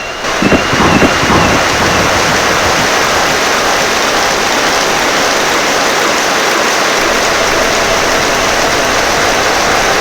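Heavy rain falling steadily, a dense even hiss, with a short low rumble about a second in.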